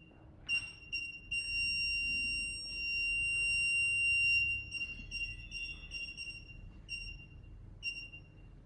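Car parking sensor beeping with one high tone. The beeps run together into a continuous tone for about three seconds, then break back into beeps about three a second that slow toward the end. The continuous tone is the sensor's warning that an obstacle is very close, and the slowing beeps mean the gap is widening.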